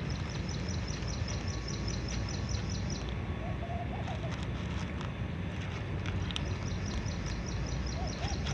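Birds calling: a high chirp repeated quickly and evenly, about five times a second, stopping about three seconds in and coming back near the end, with a dove cooing briefly in between. A steady low rumble lies underneath.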